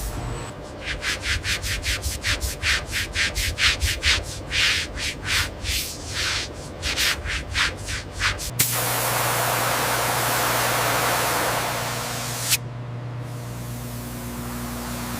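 Rhythmic back-and-forth rubbing strokes on a surface, about three a second, like hand sanding. About eight and a half seconds in they give way suddenly to a steady spray hiss, which cuts off sharply some four seconds later, over a low steady hum.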